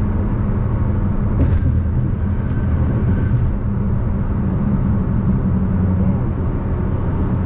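Dodge Hellcat's supercharged 6.2-litre V8 cruising at a steady pitch, with road and tyre noise, heard from inside the car.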